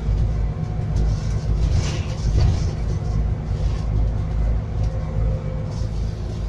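Scania N280UD biogas double-decker bus running, heard from inside: a steady, heavy low engine and road rumble with faint steady tones and occasional light rattles.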